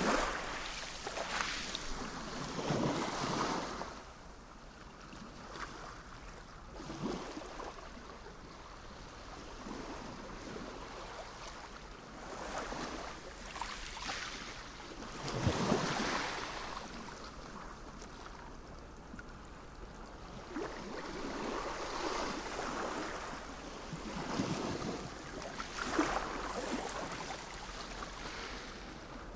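Sea waves breaking and washing on the shore, surging and receding every few seconds, with some wind on the microphone.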